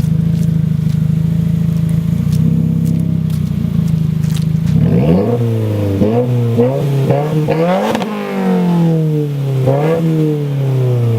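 2015 Subaru WRX's turbocharged 2.0-litre flat-four engine with its muffler deleted, idling steadily, then revved in a series of quick blips from about five seconds in, each rising and falling in pitch, before settling back toward idle near the end.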